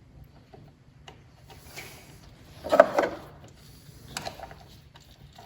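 Hand work on the engine as an ignition coil is pushed into place on its spark plug: a few light clicks, a louder clatter about three seconds in and another sharp knock a second later.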